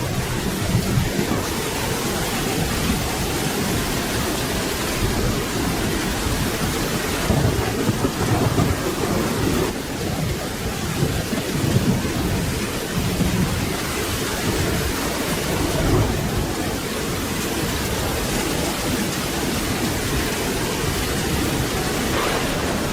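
Steady rain falling, with a low rumble of thunder rolling underneath.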